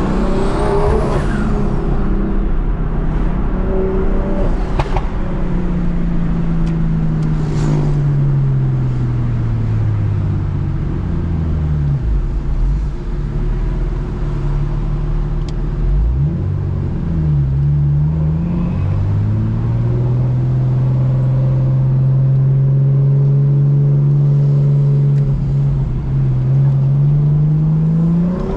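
BMW M2 Competition's single-turbo straight-six on a straight-through titanium exhaust, driven: the engine note falls slowly as revs drop, sits low and uneven for a few seconds, then climbs and holds steady before rising again near the end. A few short sharp pops or crackles come in the first third.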